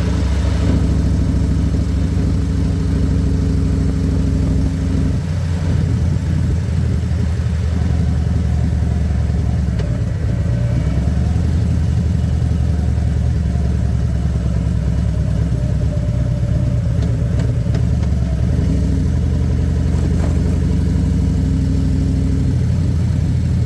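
Harley-Davidson Electra Glide Standard's Milwaukee-Eight V-twin engine running steadily while riding, its note shifting a few times along the way.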